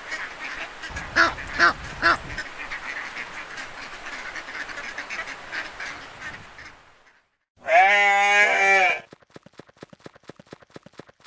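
Ducks quacking, many short calls overlapping, with three louder quacks early on, fading out after about seven seconds. After a brief silence comes one long, loud call, followed by a run of fast, light ticks.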